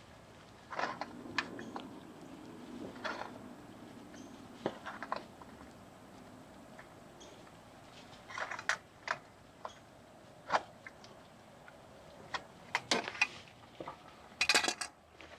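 Irregular metallic clinks and knocks of tools and parts being handled during an oil change, with a cluster of louder clatters near the end.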